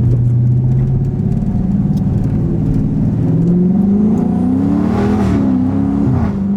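Dodge Scat Pack's 392 HEMI V8 exhaust, running with a steady, loud note, then rising in pitch to a peak about five seconds in and falling back again near the end.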